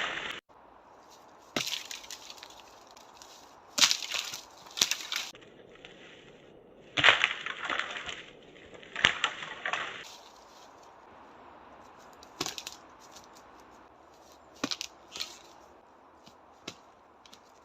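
Hand and foot strikes against dry dead tree trunks: a series of irregular sharp knocks and cracks of dry wood, with a longer crash of breaking wood about seven seconds in.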